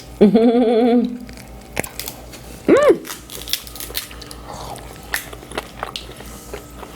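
Mukbang eating sounds while working through lobster and crab: a wavering, pleased 'mmm' near the start, a short rising-and-falling vocal sound about three seconds in, and scattered sharp clicks and crunches of shell being cracked and food being chewed.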